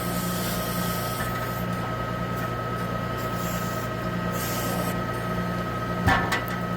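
Self-loading log truck's engine running steadily while it drives the log loader, with a steady high whine over a pulsing low hum. A sharp clunk with a brief ringing about six seconds in.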